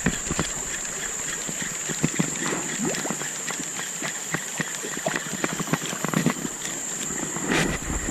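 A popper lure being worked across the water, giving irregular short pops and knocks. A steady high-pitched tone runs underneath.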